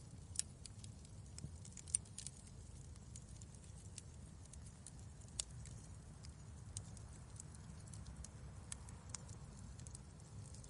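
Wood fire crackling in a fireplace: irregular sharp pops and snaps over a soft low rumble of the flames, with louder pops about half a second, two seconds and five seconds in.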